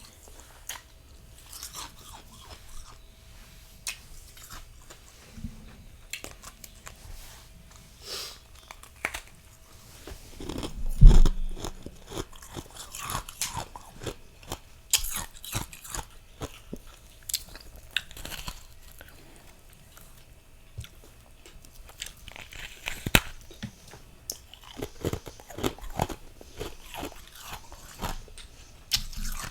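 Close-miked biting and chewing of freezer frost: crisp, irregular crunches and crackles, with one loud crunch and thud about 11 seconds in.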